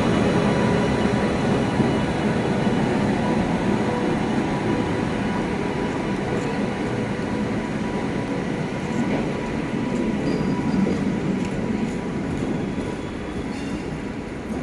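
Express passenger train pulling out of the station, its coaches rumbling steadily over the rails. The sound eases a little near the end.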